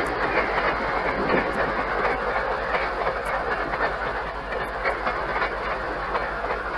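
Diesel-hauled commuter train passing, its coaches rolling by with a steady noise of wheels on the rails that eases off slightly as it moves away. Under it runs a steady low hum from the old film soundtrack.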